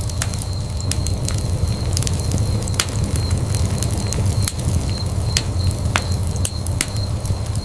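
Wood fire burning in a fireplace: a steady low rumble of flames with sharp crackles and pops from the burning wood, about one or two a second.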